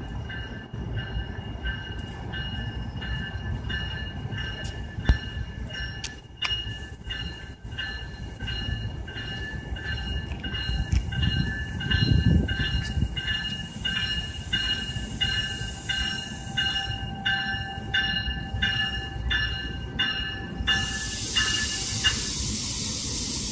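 Train at a station, a low steady rumble under a bell ringing about twice a second. Near the end a loud hiss of air comes in and holds.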